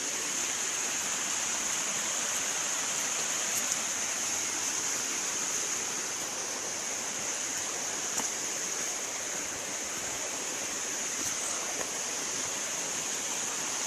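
Rushing river water: a steady, even rush with no change in level.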